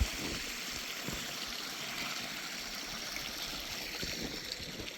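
Creek water running, a steady rushing hiss, with one short knock right at the start.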